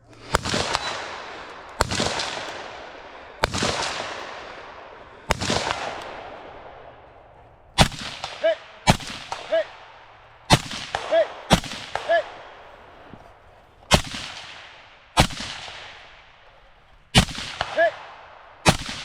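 Gunfire: about fourteen single shots fired at a steady pace, one every one to two seconds or so, each followed by a long echoing tail. After several shots comes a short ringing ping, bullets striking steel targets.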